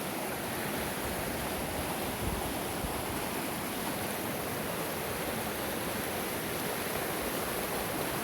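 Creek swollen with snowmelt, fast water rushing steadily with no let-up.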